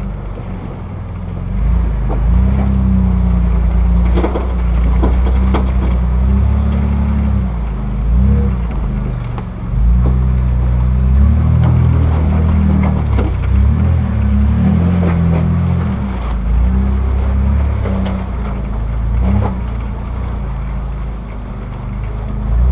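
Jeep Wrangler JK's V6 engine revving up and down under load as it crawls up a rock ledge, the pitch rising and falling with repeated throttle blips. Scattered knocks and clunks from the tyres and chassis on the rocks.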